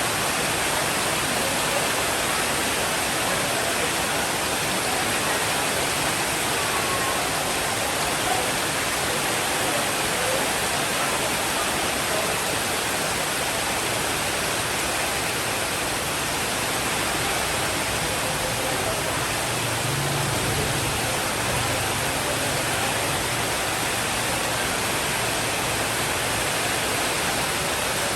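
Steady rain, an even hiss, with a soft low rumble of distant thunder starting about twenty seconds in.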